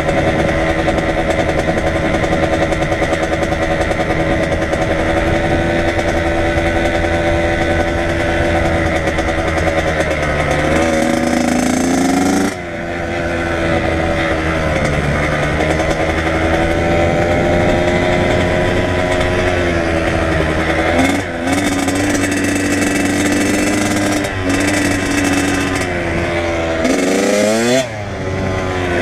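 Kawasaki KX100 two-stroke dirt bike engine running under way. Its pitch rises and falls with the throttle, with brief drops about twelve and twenty-one seconds in and a quick rev up and down near the end.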